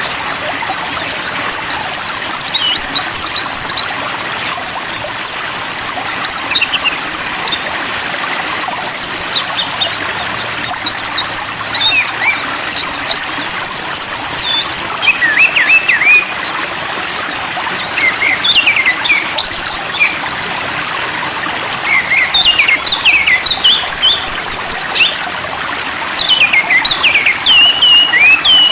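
Small songbirds chirping and whistling in quick clusters of short, high notes, over a steady rush of flowing water.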